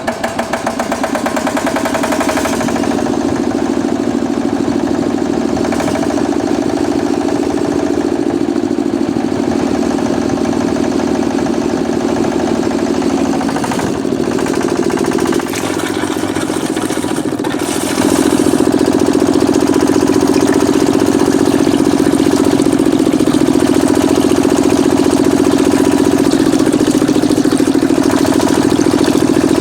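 Small mini-tractor engine, which the title calls a mini diesel, running steadily with a fast, even note. It dips briefly about halfway through, then runs louder from about two-thirds of the way in.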